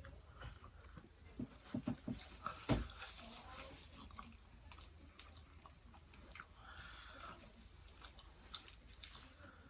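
A person chewing and biting food close to the microphone: soft, irregular mouth clicks, with a few louder ones between about one and three seconds in.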